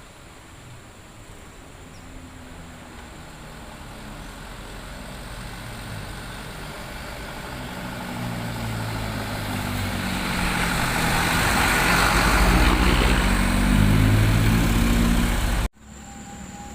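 Sugarcane truck's engine approaching and growing steadily louder as it comes close, its engine note rising and falling over broad road noise, then cut off abruptly about a second before the end.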